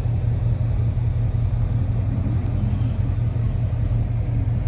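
A car engine running at low speed, a steady low rumble.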